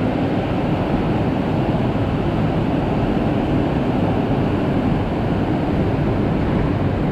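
Strong storm wind blowing steadily, an even rushing noise with no breaks.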